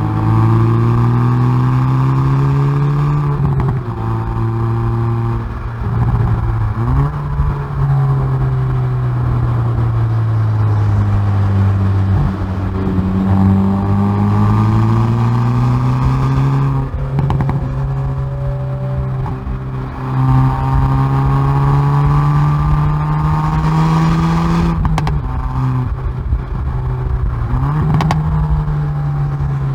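Hyundai i30N Performance's turbocharged four-cylinder engine and exhaust under hard acceleration on track. The pitch climbs through the revs and drops at each gear change, repeating about half a dozen times, with a few short crackles where it comes off the throttle.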